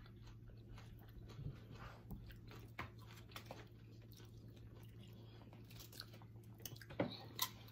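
Close-up mouth sounds of eating tortilla chips and tacos: soft chewing with small crunches and wet smacks, a few louder crunches about seven seconds in, over a low steady hum.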